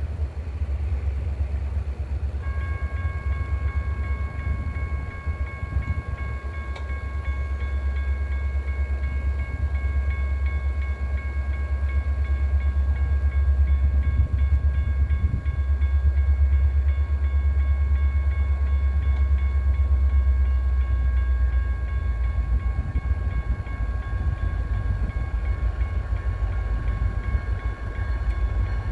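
BNSF container freight train passing, a deep steady rumble that grows loudest midway and eases again. A steady high-pitched whine joins it about two seconds in and holds.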